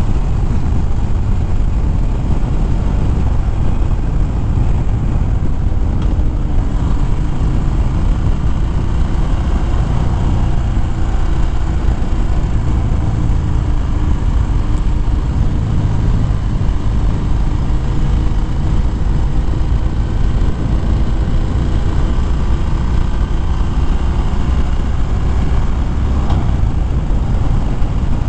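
Harley-Davidson Fat Bob's V-twin engine running steadily under way, its pitch drifting gently as the speed changes, with heavy wind rush over the microphone.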